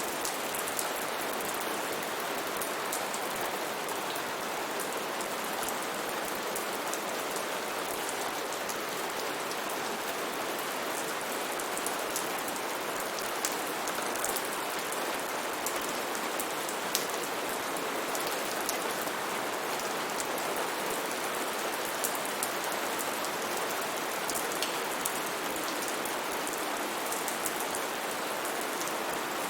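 Steady rain falling, an even hiss with many distinct drops ticking on a surface.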